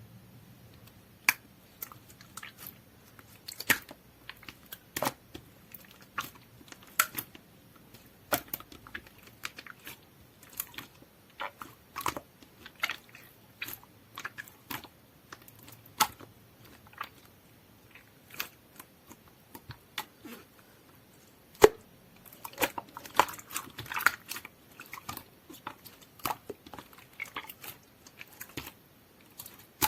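Hands squeezing and poking clear, jelly-like slime, making irregular sticky clicks and pops, which come thickest a little past two-thirds of the way through.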